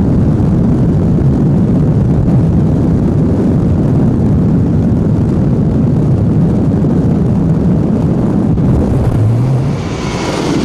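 Pakistan Navy helicopters flying past low overhead, a loud steady rumble that eases off slightly near the end.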